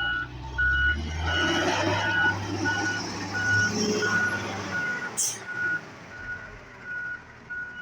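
Backup alarm of a heavy vehicle beeping steadily, about three beeps every two seconds, over a low engine rumble that fades away about five seconds in. A short sharp hiss sounds about five seconds in.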